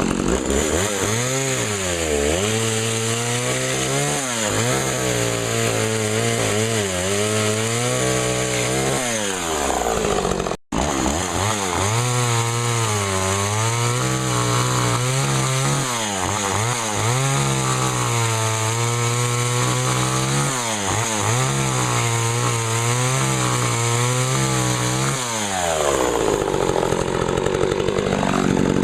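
McCulloch Eager Beaver two-stroke chainsaw running at high speed and cutting wood, its engine pitch dipping and recovering again and again as it bites into the cut. The sound breaks off for an instant about ten seconds in, and the engine pitch shifts near the end.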